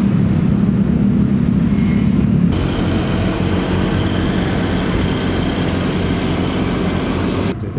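Motorcycle engine and road noise while riding in traffic: a low engine hum at first, switching abruptly about two and a half seconds in to a louder hiss with a high whine, which cuts off suddenly near the end.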